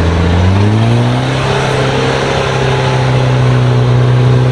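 A 4x4's engine revving up over the first second and a half and held at high revs under load, easing off right at the end.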